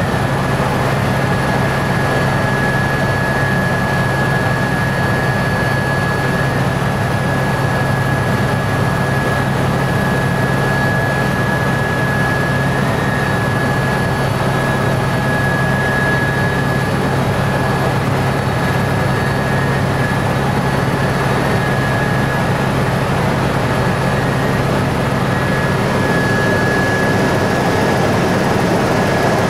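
Helicopter in steady flight: a continuous drone of engine and rotor with a thin steady high whine over it.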